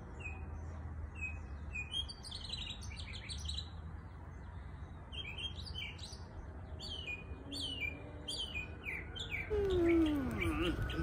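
Small birds chirping outdoors: many short, quick, falling chirps repeating, over a low steady rumble. A brief, louder falling tone comes near the end.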